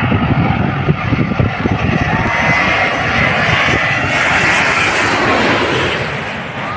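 Airliner landing low overhead, its jet engines making a loud noise with a high turbine whine that swells as the plane passes and eases near the end.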